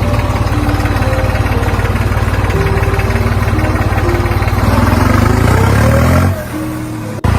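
Small engine of a mini tractor running with rapid, even firing. It revs up in a rising pitch about five seconds in, then drops off sharply near the end. Background music plays underneath.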